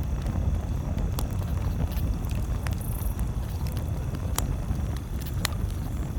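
Campfire crackling, with a few sharp, isolated pops over a steady low rumble.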